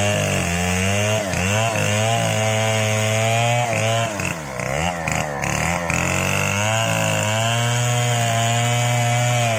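Chainsaw running at high revs while cutting wood, its engine pitch wavering and dipping briefly about halfway through as the chain loads in the cut, then holding steady.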